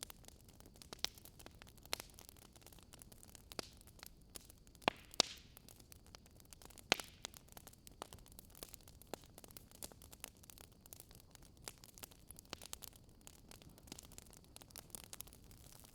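Wood fire crackling: sharp, irregular pops and snaps over a faint steady hiss, with a few louder pops about five and seven seconds in.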